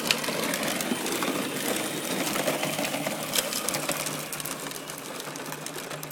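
Electric ride-on toy tractor's motor and plastic gearbox whirring as it drives, with scattered clicks and rattles, easing off near the end.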